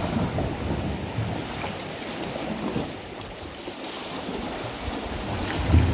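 Wind buffeting the microphone over the steady wash of ocean surf, with a louder rumble of wind near the end.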